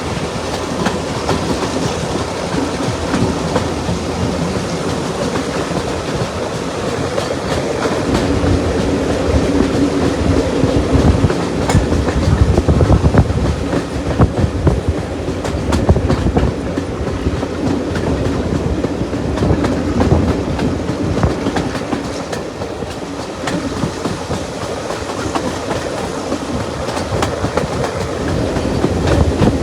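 Running noise of a Class 35 Hymek-hauled train heard on board: wheels clicking over rail joints over a steady rumble. The train gets louder a third of the way in and eases off again.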